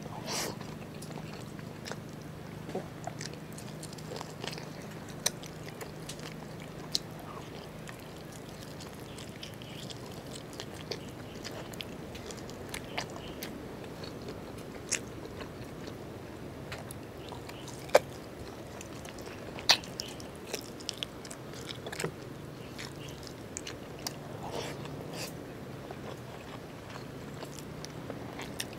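Close-miked wet chewing and lip smacking of braised pork (lechon paksiw) and rice, with many short, sharp mouth clicks scattered irregularly through it. A steady low hum runs underneath.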